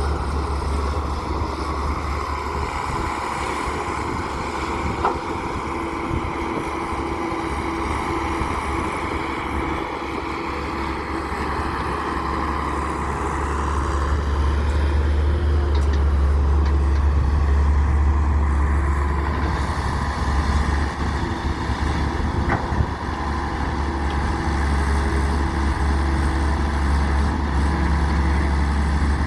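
Heavy diesel engines running steadily, louder for several seconds around the middle as the load comes on, with a couple of brief clicks.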